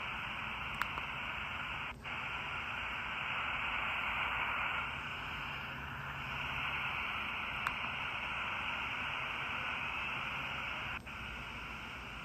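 Static hiss from the small speaker of a 4732 miniature shortwave radio, with no station coming through, a sign of its poor reception. The hiss cuts out for an instant twice.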